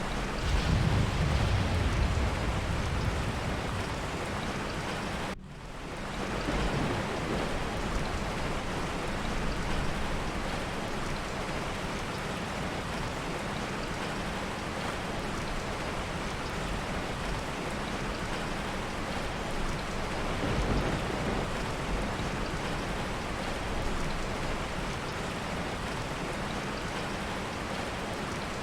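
Steady heavy rain, with a low roll of thunder rumbling in the first few seconds and a fainter rumble about twenty seconds in. The sound drops out for a split second about five seconds in, then picks up again.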